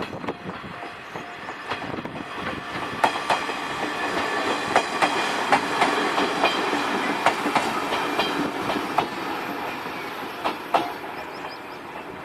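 A train passing on the railway line: wheels clacking sharply over rail joints over a steady rumble. The sound builds to its loudest in the middle and eases off toward the end.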